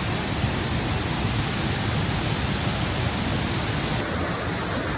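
Rushing water of a river, a loud steady roar of noise with no break.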